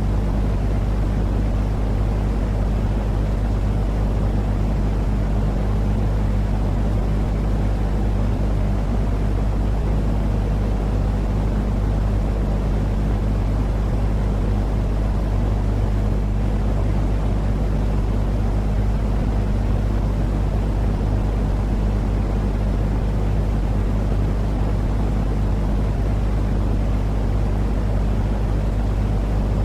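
Continuous baby-soothing noise: an even, unchanging low rumble with a steady hum underneath, never varying in level.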